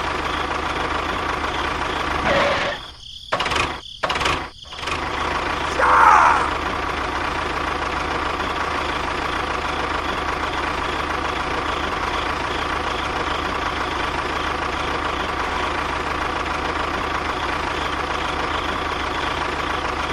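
A motor running steadily with an even hum, which cuts out briefly a few times about three to four seconds in. A short falling squeal comes at about six seconds.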